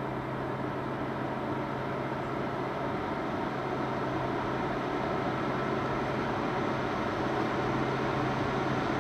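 Diesel train approaching at a distance: a steady engine drone with a low hum, slowly growing louder.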